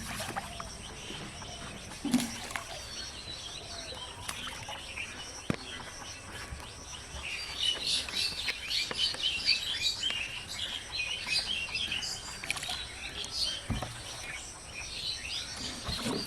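Birds chirping, with many quick calls that are busiest from about seven to twelve seconds in, and a few single sharp knocks over steady outdoor background noise.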